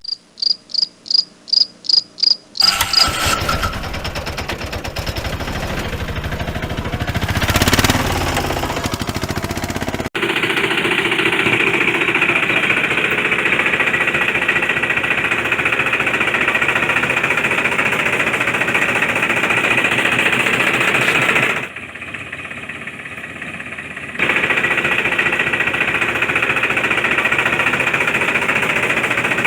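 A toy vehicle's small electric motor buzzing with a fast gear rattle. It is preceded by about eight short, high electronic beeps and drops back for a couple of seconds about three quarters of the way through.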